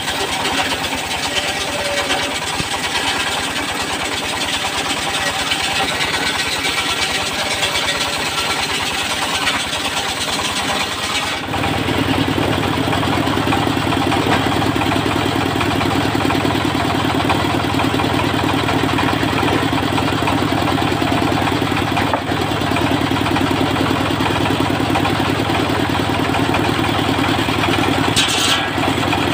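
Dongfeng diesel engine running steadily, powering a roadside circular saw rig. About eleven seconds in, the sound changes abruptly to a stronger, deeper hum that then holds steady.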